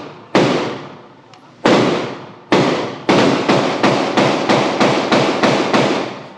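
Gunshots from another shooter at an indoor range, each ringing off the walls. There are four spaced shots, then a rapid string of about a dozen at roughly four a second.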